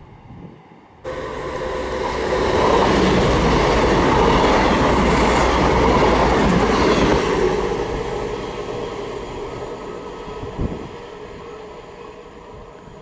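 CrossCountry Voyager diesel multiple unit passing close by at speed. Its noise comes in suddenly and loud about a second in, stays loud for several seconds, then fades away, with a single thump shortly before the end.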